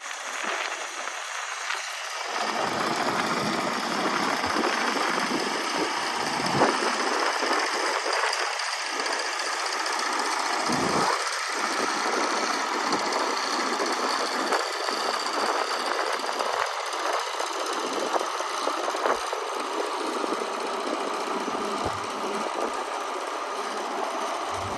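Volvo D13 diesel engine of a semi truck idling steadily, with a few brief knocks or bumps over the running.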